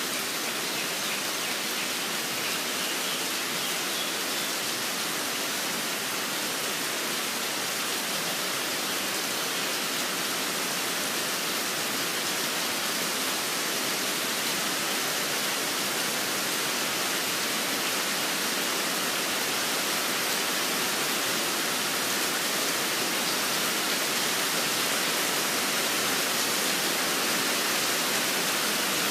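Steady rain falling, an even hiss that grows slightly louder toward the end.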